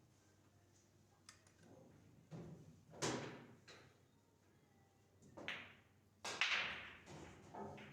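Pool balls knocking during play: a few sharp clacks of cue and balls striking. The loudest comes about six seconds in and rings on briefly.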